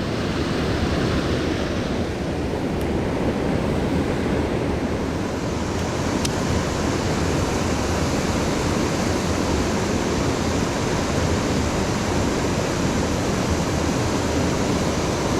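Mountain stream water rushing steadily over rocks, an even, constant noise.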